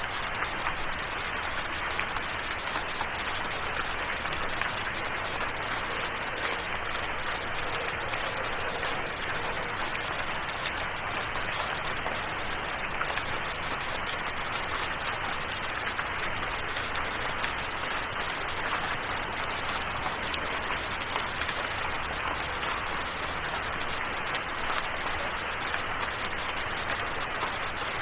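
Steady rain falling, a dense even hiss of drops with no letup.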